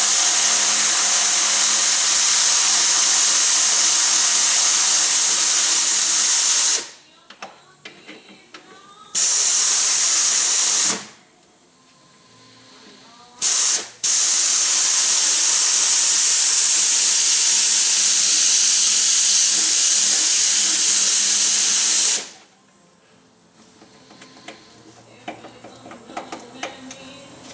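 Pneumatic tool running with a loud hiss of exhaust air, backing out an engine mount bolt. It runs in long bursts: about seven seconds, a short burst, a brief blip, then about eight seconds, with quiet pauses between.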